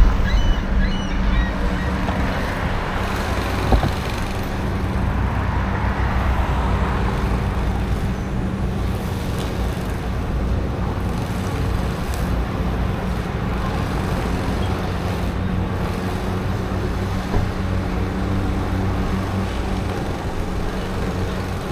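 City road traffic noise: motor vehicles running nearby with a steady low engine hum.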